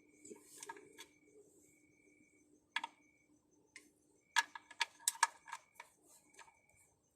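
Sharp clicks and knocks, one about three seconds in and a quick cluster between four and six seconds in, over a faint short beep that repeats about once a second.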